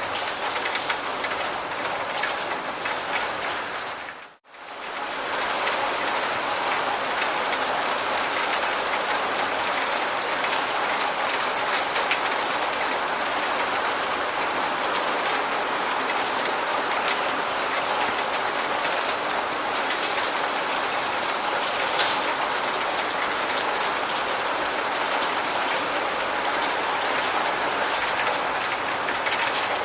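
Steady heavy rain falling, a dense even hiss of drops. About four seconds in it dips away to near silence for an instant and then returns.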